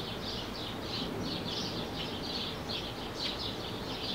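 A bird chirping over and over, high short calls about three a second, over a steady outdoor background hiss.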